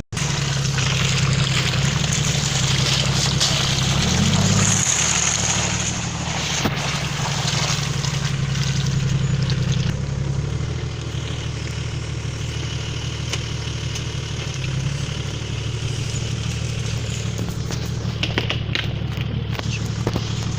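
A car engine running under load while driving through mud, with a steady hiss of tyres and mud. The engine note rises briefly about four seconds in, then drops back.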